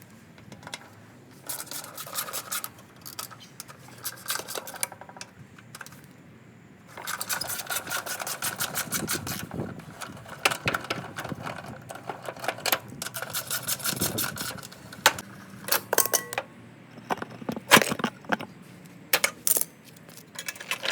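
Metal clicking, clinking and rattling of hand tools and parts as a lawn mower is taken apart, with long runs of quick clicking and a few louder metal knocks near the end.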